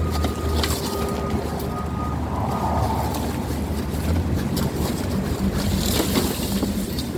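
Wind buffeting the microphone: a steady low rumble with a hiss of gusts over it.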